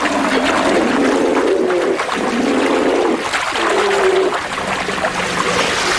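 Rushing river water, with brown bears giving several drawn-out, wavering moans and growls of about a second each.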